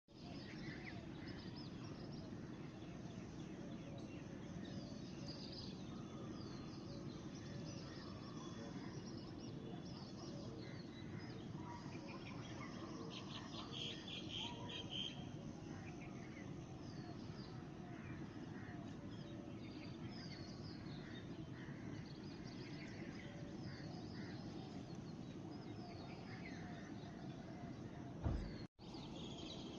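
Several songbirds chirping and calling over a steady low background rumble, with a rapid trill about halfway through. A single thump comes just before the end.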